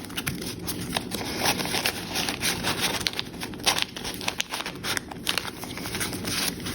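Paper rustling and crinkling, with irregular small clicks and scrapes, as loose paper pieces of a handmade junk journal are handled and fitted back onto a page.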